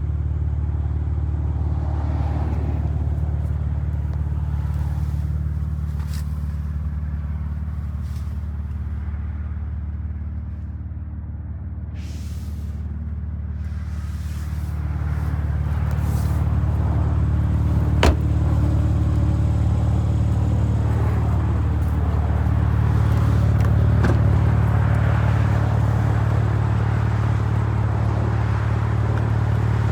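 BMW M3 Competition's 3.0-litre twin-turbo inline-six running with a steady low hum. It softens slightly, then grows louder from about halfway, with a single sharp click about two-thirds of the way in.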